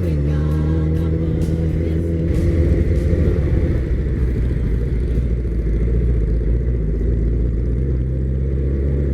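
A vehicle's engine running steadily with a low hum, swelling a little about two to three seconds in, then cutting off abruptly.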